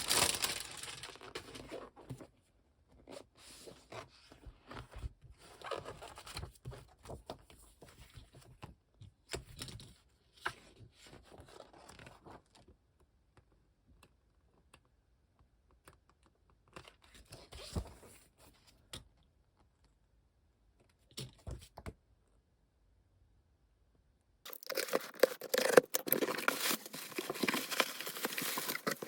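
Packaging being torn open and crinkled during the unwrapping of manga volumes, in separate rustling bursts with pauses between. A longer, louder, continuous stretch of crinkling and tearing comes near the end.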